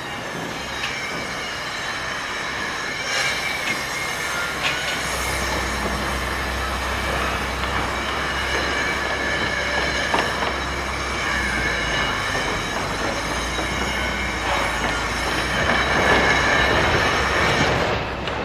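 Heavy machinery running steadily, a rushing noise with several high, sustained squealing tones over it. A deeper rumble joins about five seconds in.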